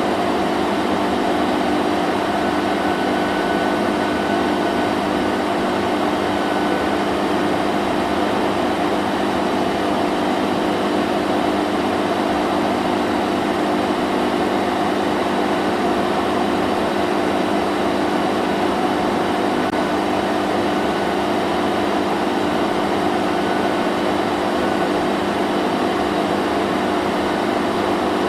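Vacuum cleaner running steadily, a constant whooshing hum with a low motor drone and no change in pitch or level.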